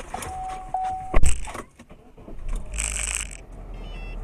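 A steady electronic beep lasting about a second, cut off by a single loud bang about a second in, followed a little later by a short burst of hiss and a few faint high chirps.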